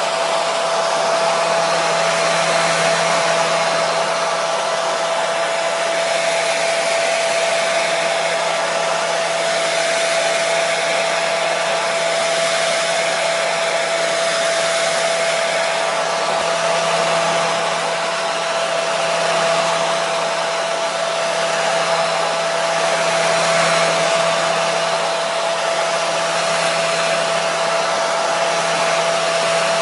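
Hair dryer running continuously: an even blowing rush with a steady whine from its motor and fan.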